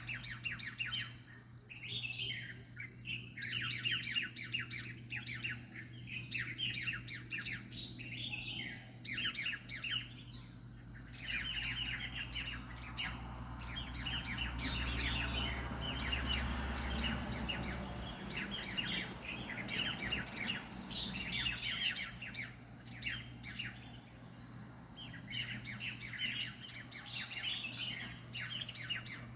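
A flock of small birds chirping in rapid, busy bouts, with a steady low hum underneath. In the middle a broad rushing noise swells and then fades.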